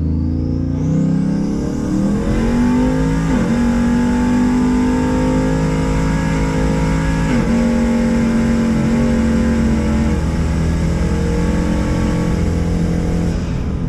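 Car engine accelerating hard: its pitch climbs, then drops sharply twice, about three and seven seconds in, as on upshifts, and holds fairly steady in between.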